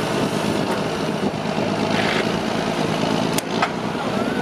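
Off-road trial truck's engine running steadily, with one sharp click about three and a half seconds in.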